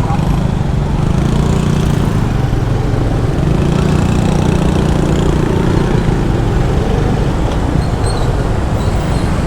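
Small single-cylinder engine of a Yamaha PG-1 motorbike running steadily while riding, with street traffic around it.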